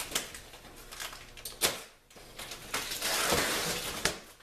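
Handling noises: a few sharp knocks, with a stretch of scraping rustle near the end.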